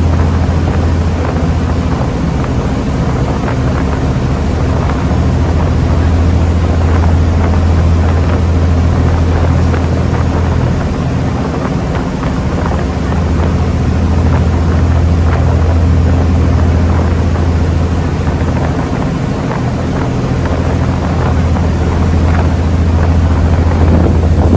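The engine of the Sanyo Kisen boat New Kasaoka running steadily under way: a loud, constant low drone with a steady rush of water and wind noise over it.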